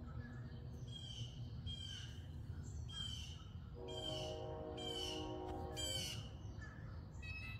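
A bird calling outdoors in short, sharp calls, about six of them roughly a second apart. A steady droning tone sounds for a couple of seconds in the middle.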